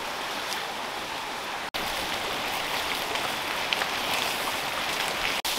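Chopped onion and browning chicken breast sizzling in hot oil in a cazuela over a wood fire, a steady crackling hiss that grows a little louder about two seconds in. The sound cuts out for an instant twice.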